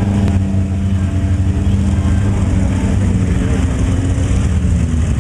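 Truck engine running steadily with a low hum that fades about three seconds in, over a constant wash of noise.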